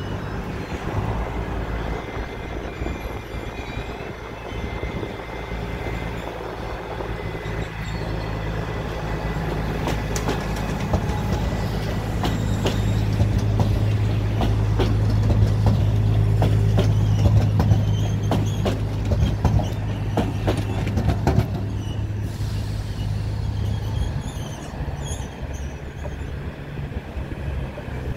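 Diesel shunting locomotive working under load as it draws a rake of Intercity coaches through the yard: a steady low engine drone that swells to its loudest about halfway through. Train wheels clatter and click over the rail joints and points through the middle of the passage.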